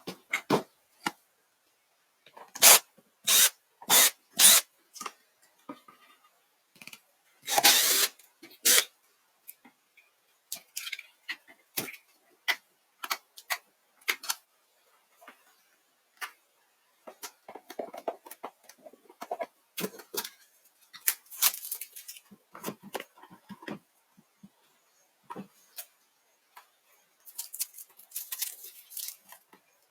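Hand-tool and handling noises from a subwoofer being worked on: a run of sharp clicks, scrapes and knocks, with a longer harsh scraping or hissing burst about eight seconds in and softer scattered clatter later.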